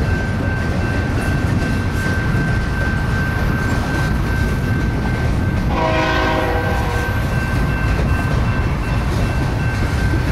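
Freight trains rolling through the yard with a steady low rumble and a thin, steady high-pitched tone. About six seconds in, a train horn sounds one short blast lasting about a second.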